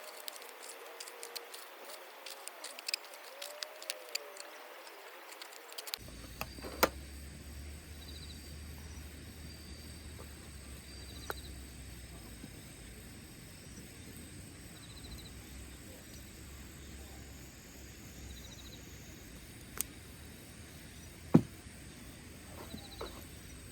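Wood campfire crackling with many small sharp pops; about six seconds in the sound cuts to a steady low hum with faint high chirps and a few isolated loud pops.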